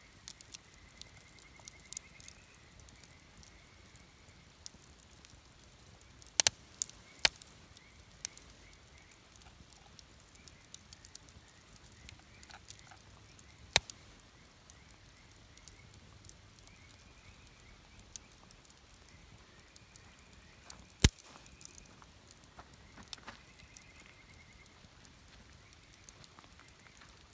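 Wood campfire crackling steadily, with scattered sharp pops from the burning wood: a loud pair about six and seven seconds in, another near the middle, and the loudest about two-thirds of the way through.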